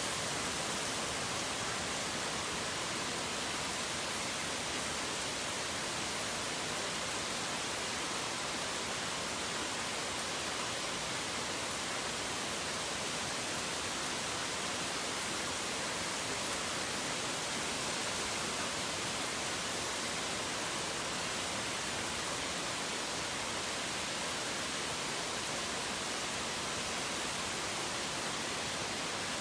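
Steady, even hiss of rain falling, with no single drops, thunder or birds standing out.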